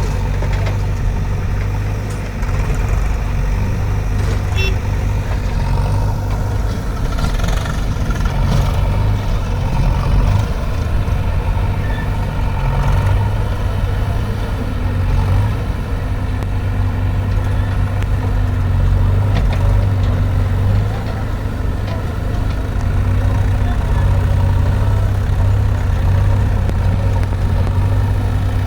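Heavy diesel engine running steadily, its level rising and falling a little.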